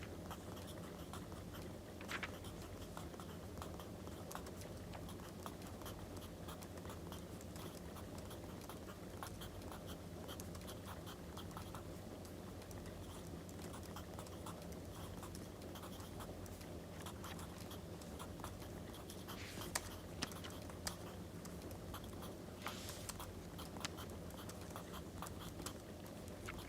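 Wood fire crackling with a dense run of small pops over a steady low hum. Paper rustles or scratches a few times, most clearly about two-thirds of the way through.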